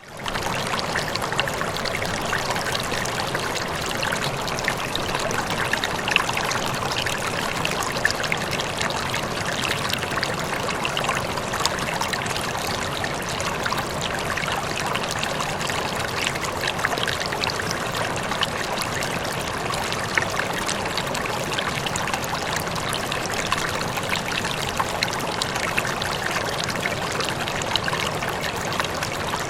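Running water flowing steadily, a continuous rushing trickle with small splashes scattered through it, fading in at the very start.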